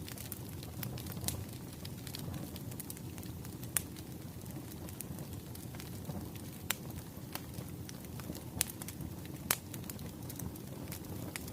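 Wood fire crackling: sharp, irregular pops and snaps over a steady low rumble, with a few louder pops about 4, 7, 8.5 and 9.5 seconds in.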